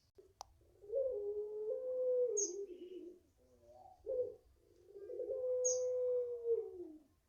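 Puter pelung turtle dove giving its long drawn-out coo twice, each about two seconds, holding a steady pitch and then sliding down at the end, with a short coo between them. A few brief high chirps from a smaller bird and a single click near the start.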